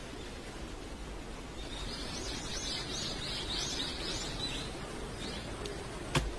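A small bird chirping in a quick run of short calls, about three a second for around three seconds, over a steady background hiss. There is a single sharp click near the end.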